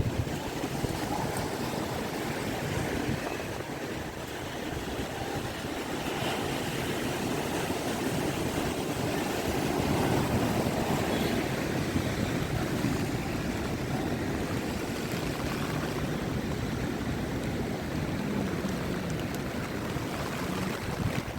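Rough monsoon sea: surf breaking and washing without pause, with a deep rumble that swells a little around the middle, and wind over it.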